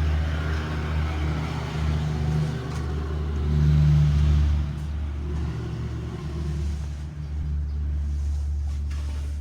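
A motor vehicle's engine running with a steady low hum, growing louder about four seconds in and then easing back.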